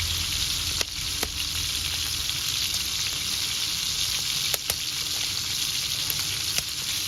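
Food frying in oil over a wood fire: a steady sizzling hiss broken by a few sharp pops, twice in quick succession about four and a half seconds in.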